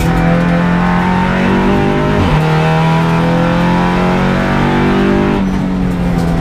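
Audi RS3 LMS race car's engine running hard on track, heard from inside the cabin, with a brief break in the engine note about two seconds in.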